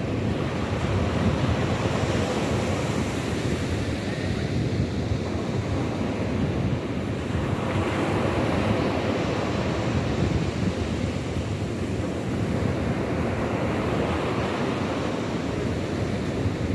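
Sea surf washing in, swelling and easing, with wind rumbling on the microphone.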